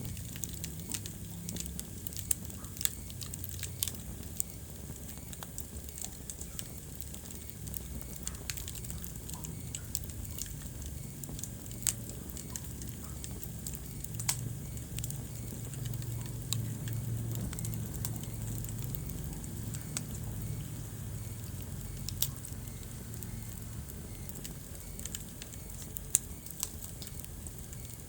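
Wood fire burning in a fireplace: irregular sharp crackles and pops, a few louder snaps among them, over a steady low rumble of the flames.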